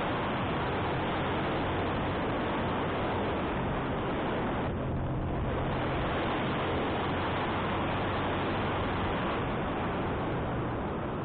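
Wind rushing over the microphone on a moving motorcycle, with the engine running steadily underneath as it climbs.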